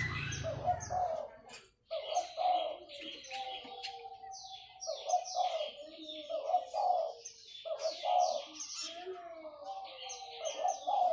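Diamond doves cooing, low notes that glide slowly downward, under a steady run of quick high chirps.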